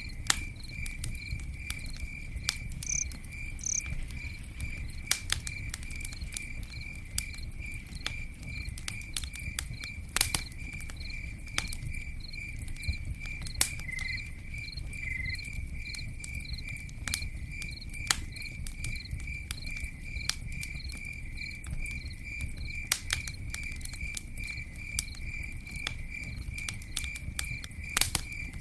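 Campfire crackling, with frequent sharp pops and snaps over a low steady rumble. A cricket chirps throughout in an even, regular rhythm.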